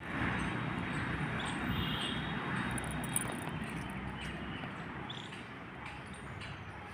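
Steady outdoor background noise: an even hiss with no clear single event, slowly fading.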